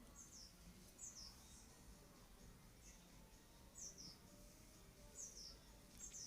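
Faint, high bird chirps, each a short downward slide, about six of them spaced a second or so apart, over quiet room tone.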